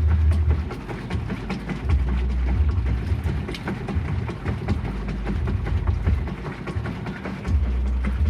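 GE Profile washing machine running: its motor hums deeply in surges that cut in and out every second or so, over a constant patter of small irregular clicks and knocks.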